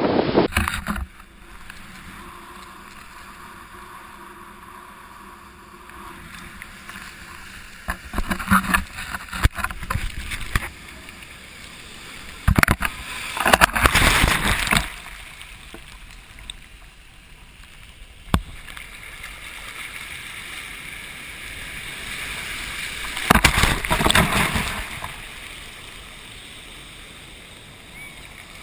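Waves breaking and washing up on the shore in storm conditions: a steady rush of water with three louder surges as bigger waves come in.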